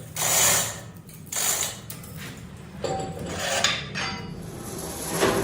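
Metalworking on a steel part: rhythmic rasping strokes about once a second, then metal clinking and a machine running from about three seconds in.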